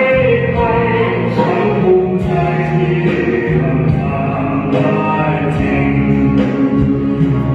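A Thai song playing: long held sung notes over instrumental accompaniment.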